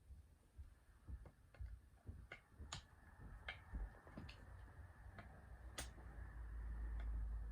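Faint, irregular small clicks and taps of hand tools and a feeler gauge working on a chainsaw's ignition points while the gap is set, with a low rumble building near the end.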